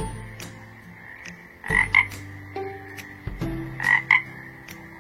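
Frog croaks in quick pairs, about two seconds apart, over light background music with steady low notes.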